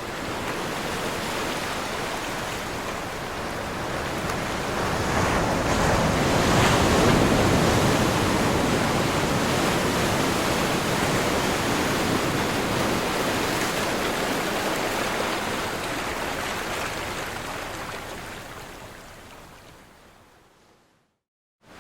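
Ocean surf crashing on a shore: the wash swells to its loudest about seven seconds in, then slowly recedes and fades out near the end.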